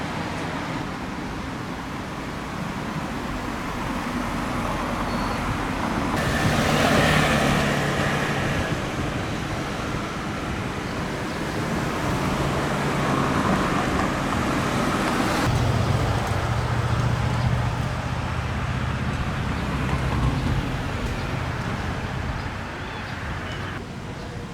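City street traffic: motor vehicles driving past, the loudest going by about seven seconds in, with another engine's low hum from about fifteen to twenty seconds.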